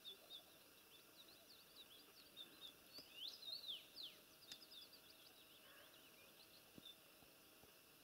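Faint small birds chirping, short high calls scattered throughout, with a louder run of rising-and-falling calls about three seconds in.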